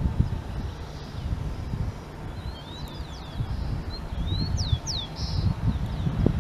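A small bird chirping in two short bouts of quick, sweeping calls, in the middle and near the end, over a steady low rumble.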